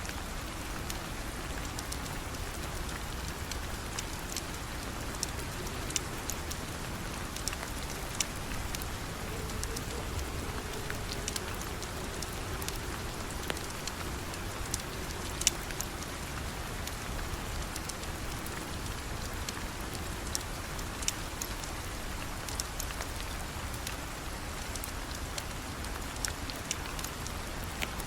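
Steady rain falling, with scattered sharp ticks and crackles throughout and one louder crack about halfway through.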